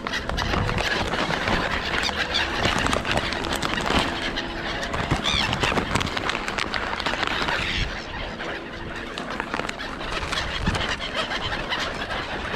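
Gulls and other wild birds calling and squealing as they squabble over scattered food, over a dense noisy background with many short clicks; a few high calls stand out about five seconds in.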